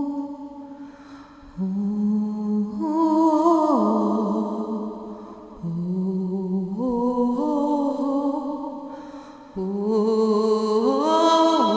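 Wordless humming chant in a single voice, sung in three long phrases that each step up in pitch and slide back down at the end.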